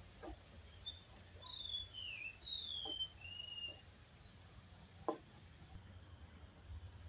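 A songbird singing a short phrase of clear, downward-gliding whistled notes, about six of them over three seconds, over a faint steady insect buzz.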